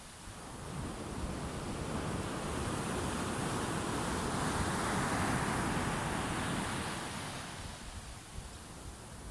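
Sea waves breaking on the shore: one wave's surf rises from about a second in, is loudest mid-way, then recedes near the end, with a low rumble beneath.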